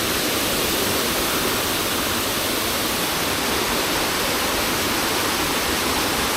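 Mountain stream rushing steadily over rocks close by, a constant even rush of water.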